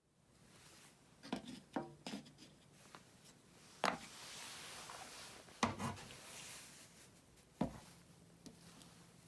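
Wooden parts and tools handled on a workbench: a few scattered light knocks and clicks with faint rubbing between them, heard while braces are glued to a guitar top.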